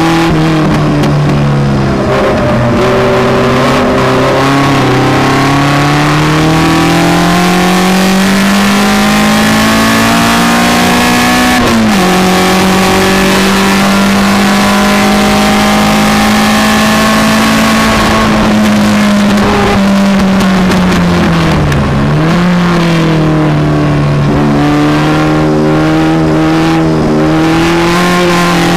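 Engine of an open-cockpit, seven-style track car at full throttle, heard from onboard over wind and road rush. The revs climb steadily for about twelve seconds, drop sharply with an upshift, and hold on the straight. Around twenty seconds in they fall away under braking, with a quick blip on a downshift, then climb again out of the corner.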